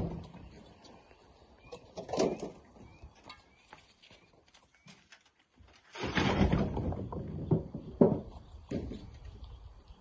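Rocks knocking and clattering as they are handled and loaded: a sharp knock at the start, a clatter about two seconds in, a longer rattle of stones tumbling about six seconds in, and another sharp knock near eight seconds.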